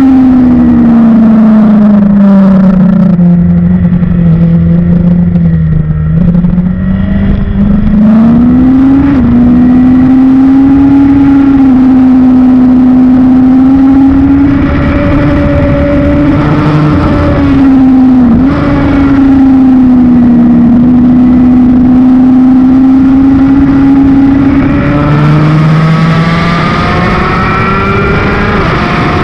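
Honda CBR1000 sportbike's inline-four engine running hard at track speed. Its pitch falls over the first few seconds and climbs again, holds fairly steady with a brief dip midway, then drops near the end and climbs through the gears as the bike accelerates.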